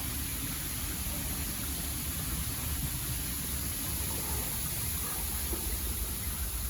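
Steady rushing noise of storm-driven seawater and wind, with an uneven low rumble underneath.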